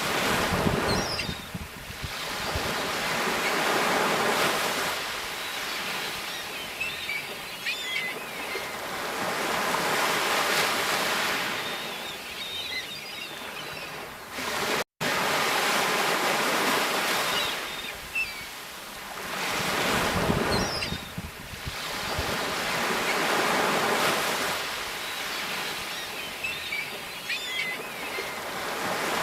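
Sea waves breaking and washing on the shore, the surf rising and falling in slow swells every few seconds. The sound cuts out for an instant about halfway through.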